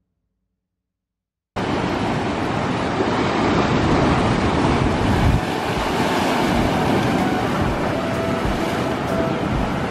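Silence, then from about a second and a half in, ocean surf surging and breaking over a rocky tide-pool shelf, with wind buffeting the microphone.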